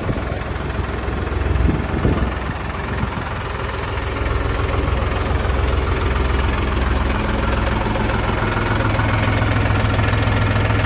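Mahindra 265 tractor's three-cylinder diesel engine running steadily, its revs rising a few seconds in and holding higher.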